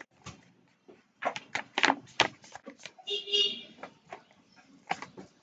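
Sheet of origami paper being handled and creased, with a run of quick, sharp crinkles and clicks.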